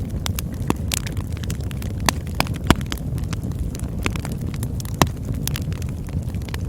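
Campfire burning: a steady low rumble of flames with irregular sharp crackles and pops, a few louder snaps standing out.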